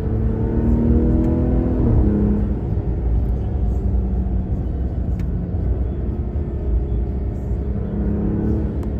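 Ram RHO pickup's twin-turbo inline-six pulling under acceleration: its pitch rises for about two seconds, drops at an upshift, runs steadier, then climbs again near the end.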